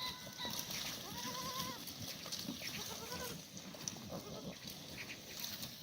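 Black goats bleating: a few short bleats with a wavering pitch in the first half, over faint background noise.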